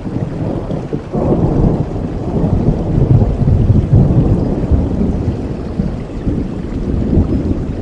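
A long roll of thunder over steady rain: it breaks in suddenly about a second in, rumbles deep and loud for several seconds, then slowly dies away.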